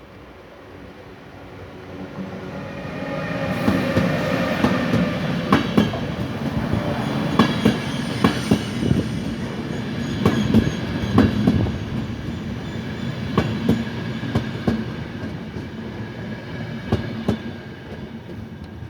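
Express train hauled by a Taurus electric locomotive passing: the rumble builds over the first few seconds, then a long stretch of wheels clicking over rail joints, fading near the end.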